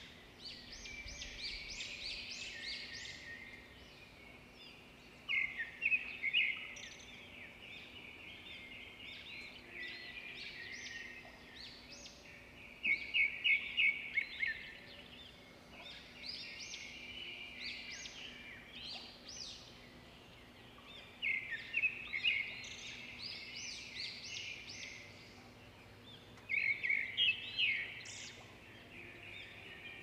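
Songbirds singing: a loud, rapid chirping phrase comes back every six to eight seconds, with softer twittering in between.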